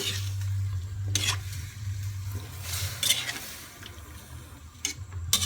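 Spoon or spatula stirring and scraping through a pot of pork, chicken, potatoes and carrots in broth: three scraping strokes, about a second in, mid-way and near the end, with a faint sizzle beneath.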